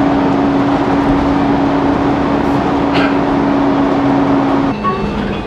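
Steady road traffic noise with a constant engine hum that cuts off near the end.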